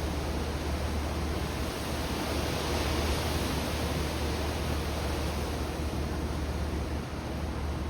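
Steady rush of strong tropical-storm wind, swelling slightly about three seconds in, with a constant low rumble of the wind buffeting the microphone.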